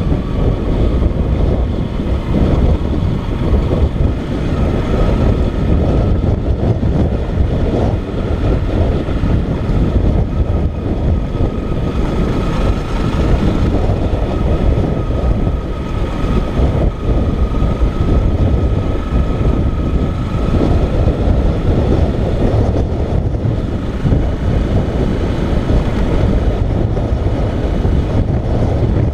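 Motorcycle on the move: a steady, loud rumble of engine, road and wind noise, with a faint steady whine through the middle stretch.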